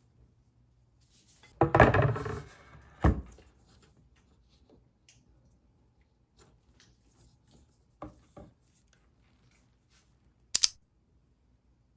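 Household items being handled: a brief scraping clatter about two seconds in, a sharp knock a second later, then a couple of faint clicks and one sharp, high click near the end.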